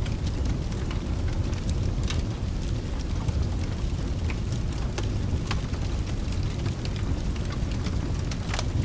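Fireplace fire crackling, with scattered sharp pops over a steady low rumble, mixed with rain.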